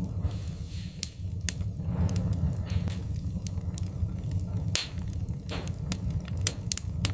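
Wood fire crackling in a fireplace: sharp pops and snaps at irregular moments over a steady low rumble of burning wood.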